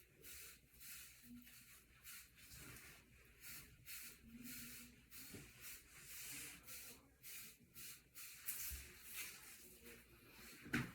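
Faint, repeated swishes of a hair brush stroked over short, waved hair, several strokes a second in an uneven rhythm. A sharper knock near the end.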